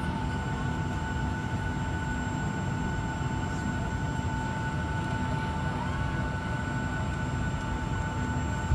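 Steady cabin noise inside a Boeing 757 before takeoff: a low even rumble from the aircraft's air systems with a constant two-tone whine above it.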